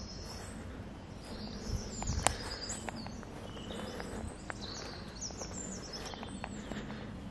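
Several songbirds singing in short, repeated high phrases, with one sharp click a little over two seconds in.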